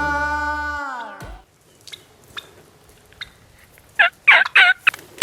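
Music slows and slides down in pitch to a stop in the first second and a half. About four seconds in, a wild turkey gobbles: one loud, rapid rattle of about four notes.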